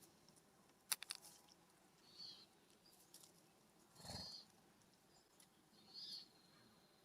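Faint bird sounds at a ground feeder: a few quick sharp taps about a second in, then three short high calls spaced about two seconds apart.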